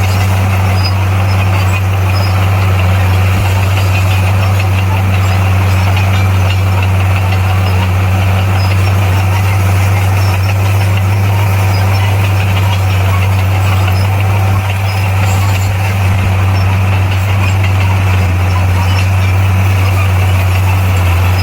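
Bulldozer's diesel engine running steadily at constant speed, a loud even low hum.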